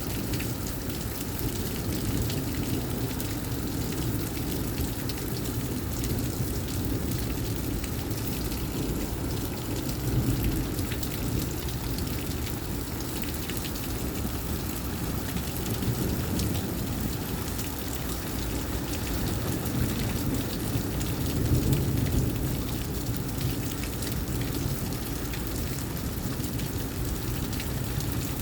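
Heavy thunderstorm rain falling steadily, with a deep rumble underneath that swells slightly about ten seconds in and again a little after twenty seconds.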